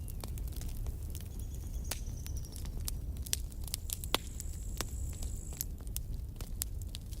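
Wood campfire crackling: frequent sharp pops and snaps of uneven strength over a steady low rumble of the flames. A faint high thin whistle sounds twice.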